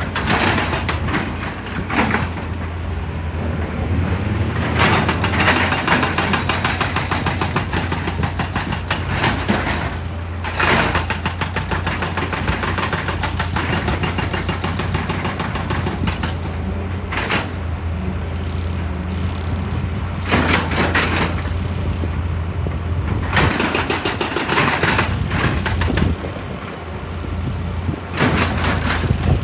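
Heavy diesel excavator engine running steadily under load, with repeated bursts of harsh grinding and crunching as the machine works rock.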